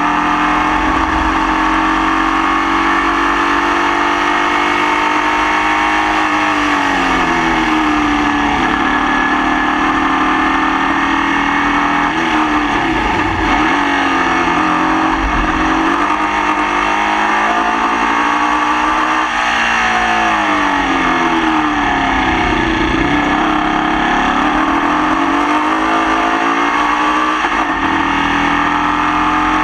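Onboard sound of a Formula Vee race car's air-cooled VW flat-four engine driven on track. Its note falls and rises several times as it lifts off and accelerates again. The engine has a misfire that lasted the whole race.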